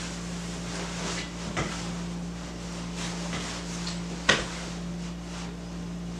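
A steady low hum with scattered light clicks and knocks, the sharpest a single short knock about four seconds in.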